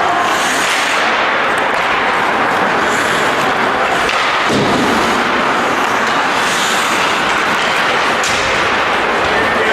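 Ice rink ambience during an ice hockey game: a steady rushing noise with a few short high hisses.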